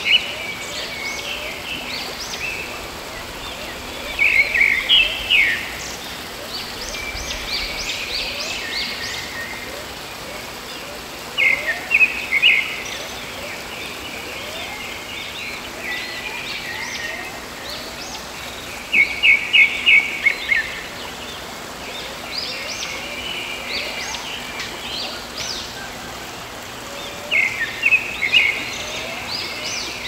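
A songbird repeating a rapid run of chirps about every seven to eight seconds, with fainter calls from other birds between, over a steady rushing hiss of flowing water.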